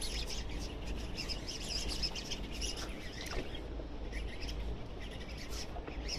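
Small birds chirping and tweeting repeatedly, over a low steady rumble.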